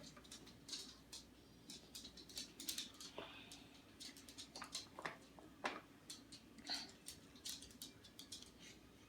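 Faint, irregular clicks and scrapes of a child's plastic toy truck pushing and scooping snow.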